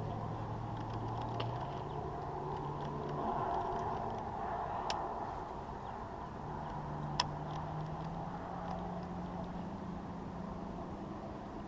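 Low, steady hum of a distant engine that shifts up in pitch a few times. Two sharp clicks come about five and seven seconds in.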